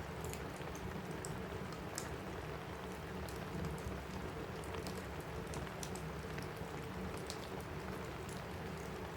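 Steady rain on a roof, with frequent small sharp crackles from a wood fire in a fireplace scattered through it.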